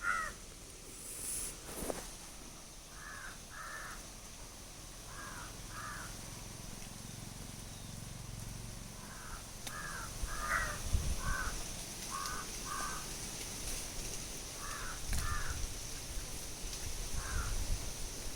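Crows cawing: short calls, mostly in pairs, repeated every second or two. A low rumble joins from about halfway through.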